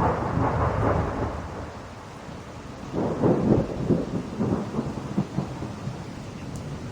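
Thunder over steady rain. It breaks suddenly with a loud rumble, eases off, then swells again about three seconds in with a crackling roll that fades away.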